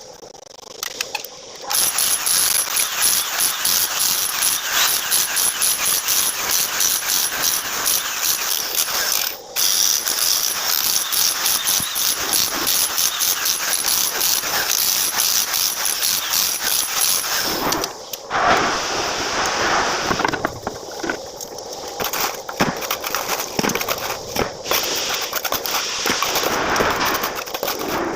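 Fast, dense mechanical rattling with a thin, high, steady whine through the first half. It drops out briefly near the middle and becomes rougher and more uneven about two-thirds of the way in.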